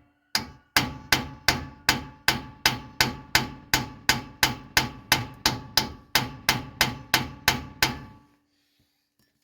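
Hammer blows driving a new axle bearing into a differential axle tube with a bearing installer tool. About two dozen steady, evenly spaced strikes, roughly three a second, each with a short metallic ring, stop about eight seconds in. The bearing is a tight fit, hung up on a burr on the edge of the tube.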